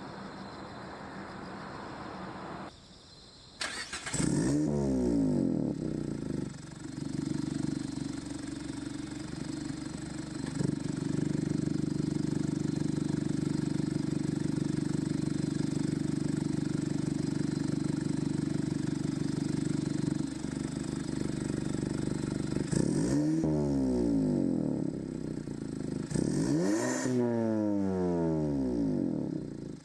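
Mazda MX-5 (ND Roadster) four-cylinder engine through an AIMGAIN valved exhaust. It starts about four seconds in with a short rev flare and settles into a steady idle. Near the end the throttle is blipped twice, the exhaust note rising and falling each time.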